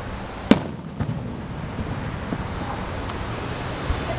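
Fireworks display shells exploding: one loud sharp bang about half a second in, a second bang about a second in, then a couple of fainter booms, over a steady background hiss.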